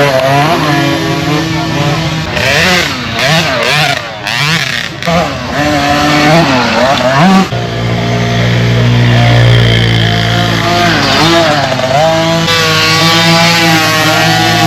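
Several small dirt bike engines revving, their pitches rising and falling over one another. About halfway through, a deeper, steadier engine note takes over and holds.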